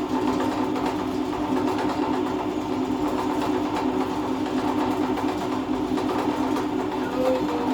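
Electric drilling machine running steadily, its motor giving a constant hum while holes are drilled.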